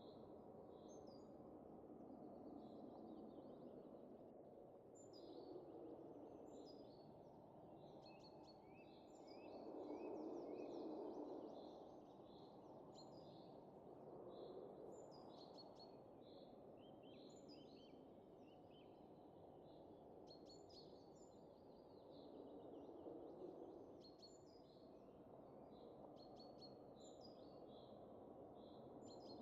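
Soft wind that rises and falls in gentle gusts, strongest about ten seconds in, with small birds chirping and twittering throughout.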